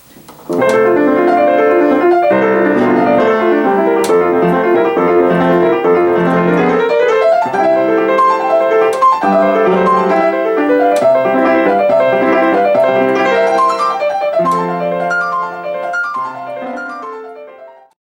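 Solo piano playing, with full chords and moving lines, starting about half a second in, growing softer over the last couple of seconds and dying away near the end.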